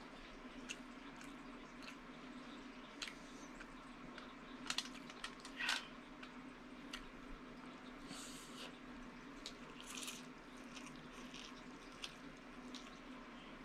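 Wet mouth sounds of eating with the fingers: chewing, lip smacks and soft squishy clicks scattered through, with a few short louder noises around the middle, over a steady low hum.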